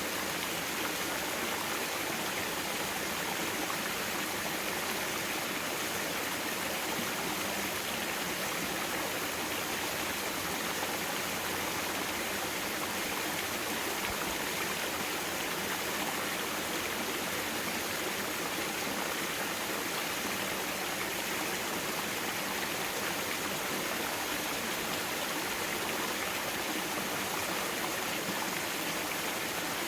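Mountain valley stream flowing steadily: an even, unbroken water hiss with little low end.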